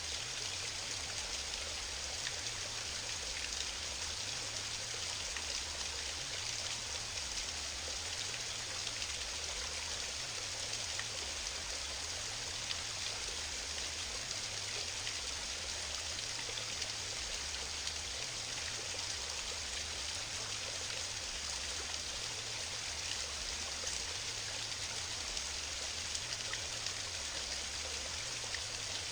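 Small waterfall splashing into a mountain stream: a steady, unbroken hiss of falling water.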